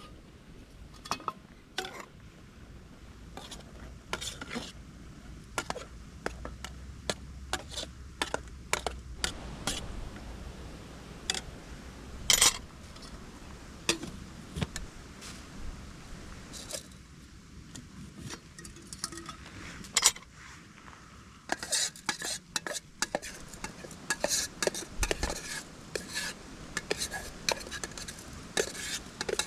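Metal utensils clinking and scraping against camp cookware, in irregular short knocks that become busier about twenty seconds in.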